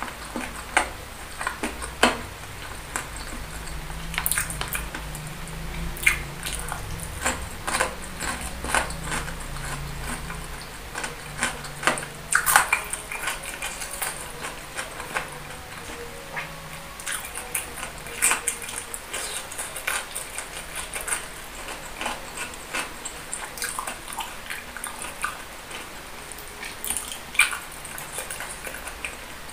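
Close-miked chewing and mouth sounds of eating saucy boneless chicken feet: irregular wet smacks and sticky clicks, with a few sharper clicks of chopsticks against the plate.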